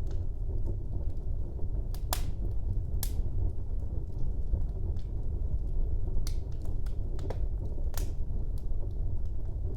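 Wood fire burning in a fireplace: a steady low rumble of flames with scattered sharp crackles and pops, the loudest about two, three and eight seconds in.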